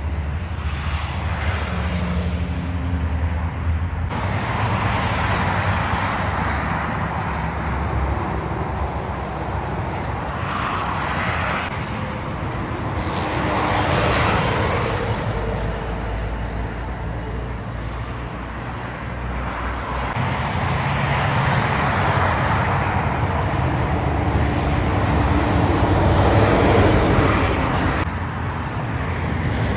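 Road traffic with trucks going past: a continuous low engine hum under rising and falling tyre-and-engine noise as vehicles pass. It is loudest about halfway through and again near the end.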